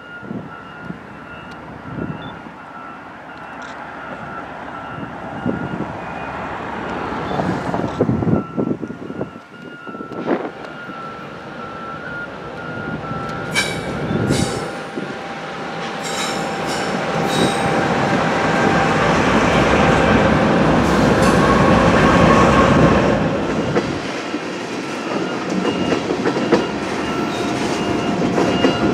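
Freight train led by CSX diesel locomotives, approaching and passing close with its engines rumbling, growing louder to a peak about two-thirds through. Wheels squeal on the curve, and there are sharp clicks and clanks of wheels over the rails as the locomotives pass, followed by the empty tank cars rolling by.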